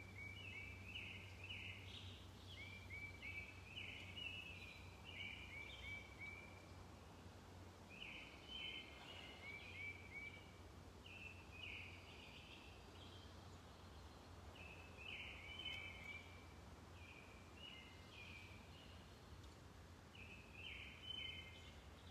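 A songbird singing faintly outdoors, short phrases of quick repeated notes coming every few seconds, over a faint steady low hum.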